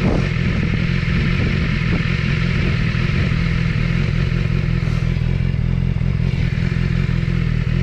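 Motorcycle engine running at a steady speed, a constant low drone with an even rushing noise over it.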